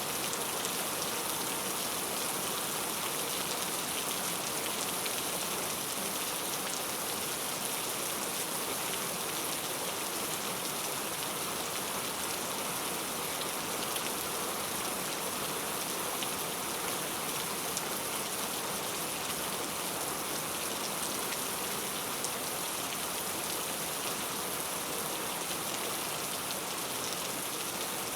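Steady heavy rain falling on a surface, an even hiss with scattered individual drop impacts.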